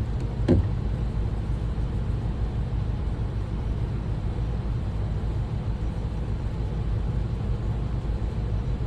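A steady low hum, with one short knock about half a second in.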